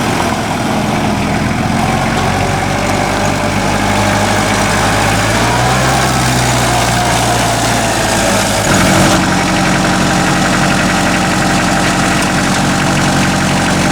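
Kubota MX5000 tractor's diesel engine running steadily at idle; its note shifts abruptly about eight and a half seconds in.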